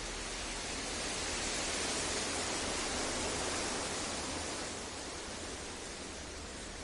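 Synthetic masking noise for sleep: a dense, even hiss across the whole range with no tones in it. It swells louder and brighter about a second in, then eases back after about four and a half seconds.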